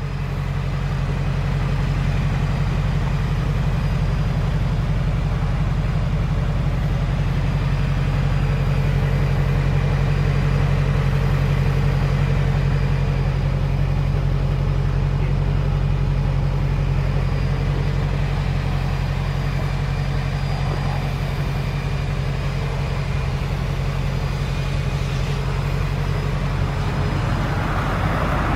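Mercedes-AMG G63's twin-turbo V8 idling: a steady low hum that swells in the first second or so, then holds even.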